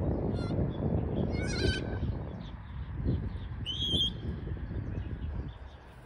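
Wind rumbling on the microphone, with a few short whistled bird calls: one about a second and a half in and a higher one about four seconds in.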